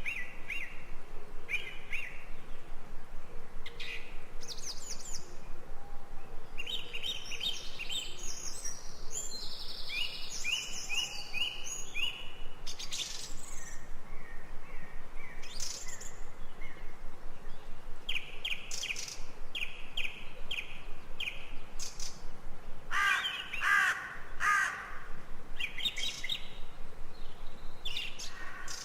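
Several birds calling in a jungle chorus: many quick series of high chirps and repeated whistled notes, with louder, rougher calls around three-quarters of the way through.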